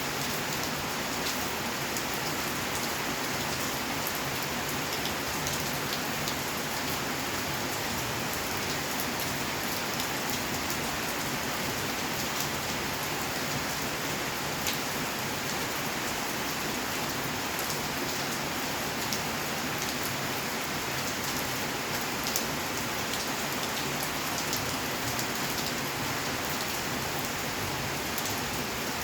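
Steady rainfall, a continuous hiss with scattered sharp drop ticks on hard surfaces.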